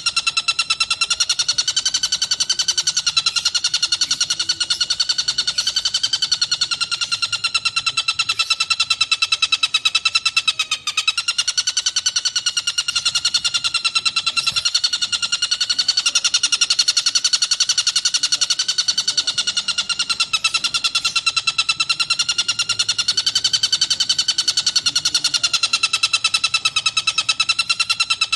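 Tengkek buto bird singing a continuous, very fast trill of rapidly repeated notes, its pitch gently rising and falling every few seconds.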